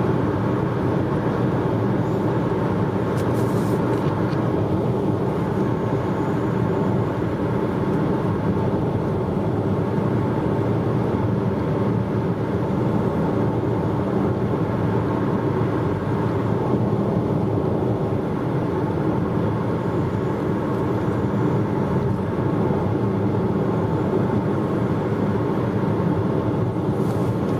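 Steady car cabin road noise while driving: a low engine and tyre drone that stays constant throughout.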